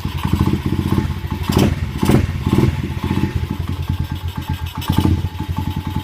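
Dirt bike engine running after a choked cold start, with a few brief sharper bursts around two seconds in and again near five seconds.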